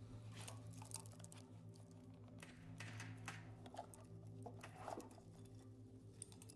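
Faint, irregular metallic clicks and taps of hand tools and engine parts being handled during disassembly, over a quiet background music drone.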